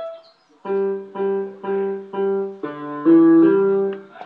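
Keyboard playing the same chord over and over, about two strikes a second, then moving to lower, louder chords near the end.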